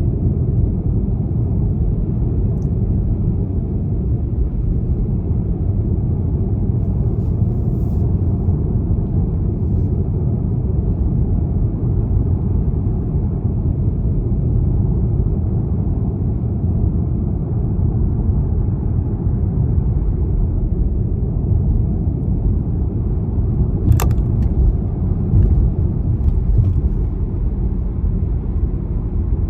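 BMW 320d xDrive with its four-cylinder diesel on the move: a steady low rumble of engine and road noise. A sharp click near the end, then a few faint ticks.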